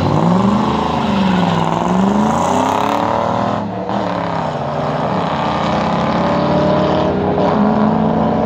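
A Ford Mustang and a Dodge 5.7 Hemi V8 launching side by side in a street race and accelerating hard, the engines revving up through the gears with a drop in pitch at each shift. Near the end the pitch settles into a long, slow, steady climb.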